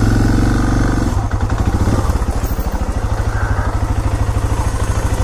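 Suzuki DR650SE's single-cylinder engine running, a little louder in the first second, then idling with an even, rapid pulse.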